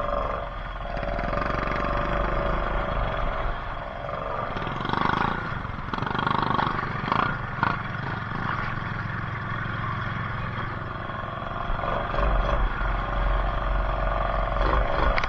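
ATV engine running steadily during a ride, with a deep low rumble and a few brief surges in level.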